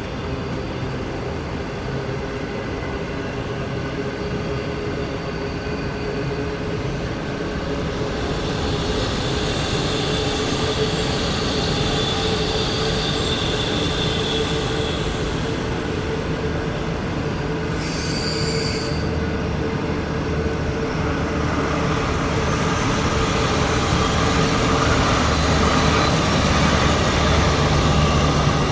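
Train running along the track: a steady rumble with a constant humming tone that grows slowly louder, and a brief high squeal about two-thirds of the way through.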